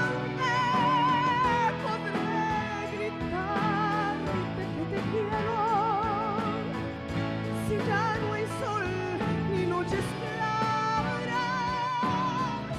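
Spanish-language ballad: a female singer holding long notes with a wide vibrato over instrumental accompaniment.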